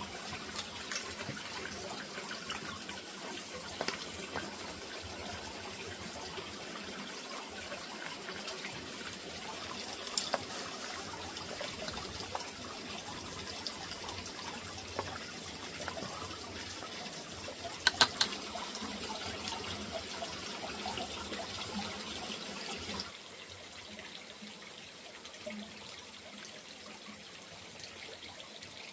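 Water running or splashing steadily, with a few sharp clicks and knocks now and then. The water sound drops to a quieter level about three-quarters of the way through.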